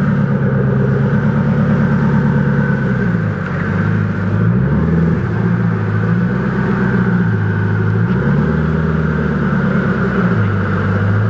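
Koenigsegg CCXR Trevita's twin-supercharged V8 running at low revs. The pitch steps up and down gently a few times as the throttle is eased on and off.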